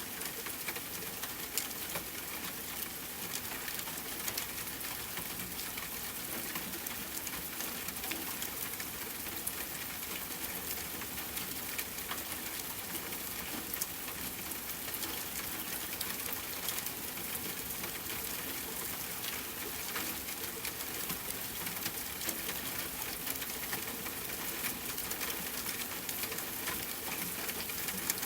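Steady rain falling, with the light patter of scattered drops, used as a background bed for sleep.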